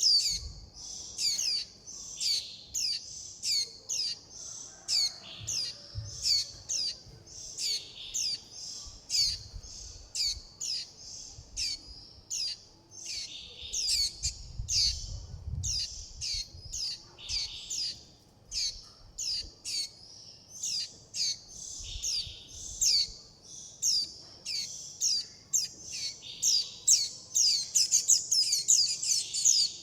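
Juvenile white-eye giving short, high begging chirps about twice a second, coming faster near the end: the food-begging and contact calls of a young bird calling for its parent.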